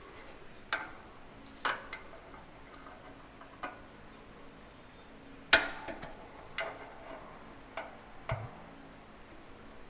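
Irregular sharp metallic clicks and taps, about a dozen, with one much louder strike a little past halfway: hand tools such as snap ring pliers working at a snap ring on a tractor PTO housing held down in a press.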